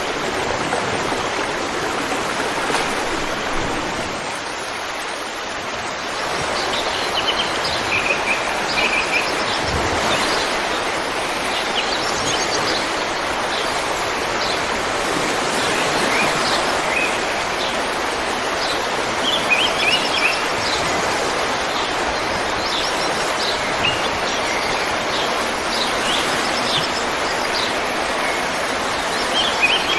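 River water flowing in a steady rush, with birds chirping in short quick runs of high notes from about six seconds in.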